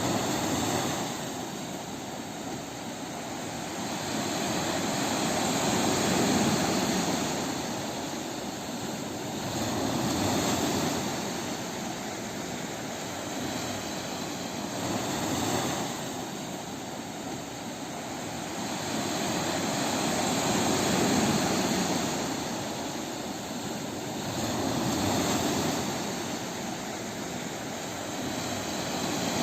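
Waves breaking on a beach, the surf swelling and easing every four to five seconds.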